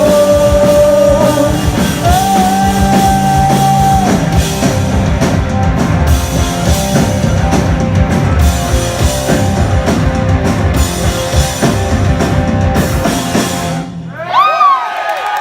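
Live rock band playing loud, with held sung notes over drums and guitars. The song stops abruptly near the end, and the crowd breaks into cheers and whoops.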